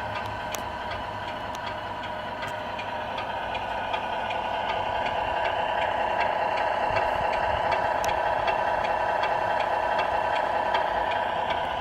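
RC Scania R470 model truck running: a steady mid-pitched hum with faint, evenly spaced ticking. It grows louder about halfway through.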